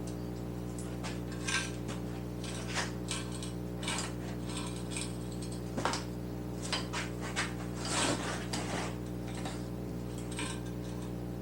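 Metal parts and tools being handled in a workshop: scattered clinks, knocks and rattles, the loudest about six and eight seconds in, over a steady low hum.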